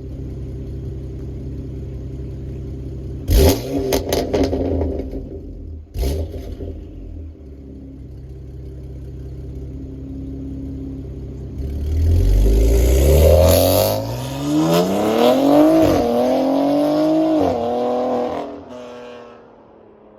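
BMW X3 M's S58 twin-turbo straight-six, with aftermarket downpipes and midpipe, running at idle and blipped hard twice, the first blip with a burst of crackles. About twelve seconds in it pulls long and loud, its pitch climbing with two sharp drops before it fades away.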